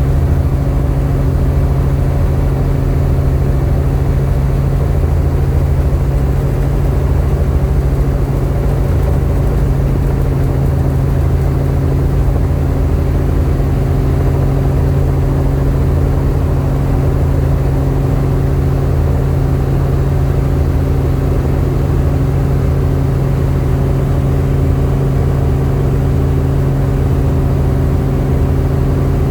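Helicopter's steady drone of engine and rotor, a constant low hum that neither rises nor falls.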